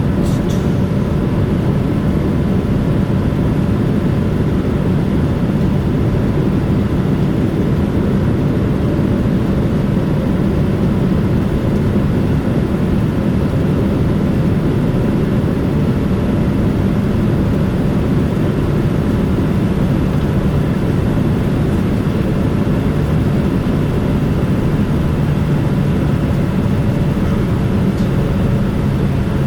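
Steady low cabin rumble inside a Boeing 787-9 on the ground before takeoff, engines running, with a faint steady hum over it.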